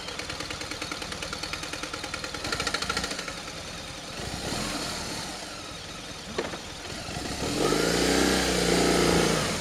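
BMW R1200GS boxer-twin engine running, with a steady pulsing beat for the first few seconds, then revved up and back down near the end.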